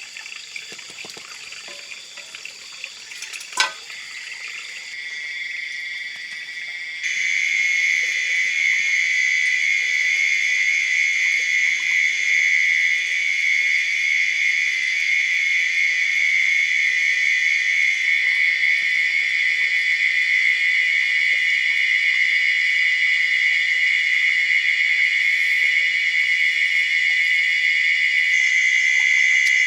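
A steady, shrill chorus of forest insects trilling on several high pitches at once; it jumps much louder about seven seconds in. A single sharp click comes about three and a half seconds in.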